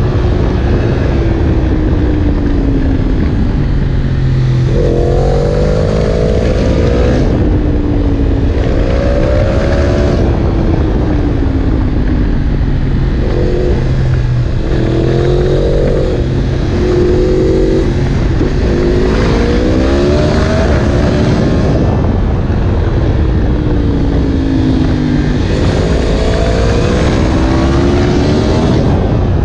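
Yamaha MT-10 SP's crossplane inline-four running through an Akrapovic exhaust, under way: the engine note climbs over a few seconds, drops, and climbs again several times, as it accelerates and shifts gears, over a steady low rumble.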